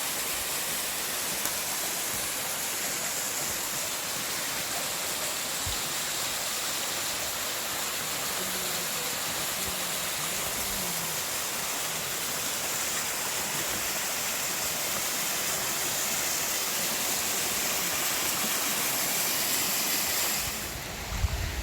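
Steady rush of river water flowing. About a second before the end it gives way to low wind rumble on the microphone.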